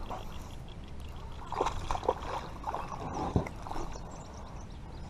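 Water splashing and sloshing in short, irregular bursts at the surface as a hooked small bass is brought in alongside a small boat, with a steady low rumble underneath.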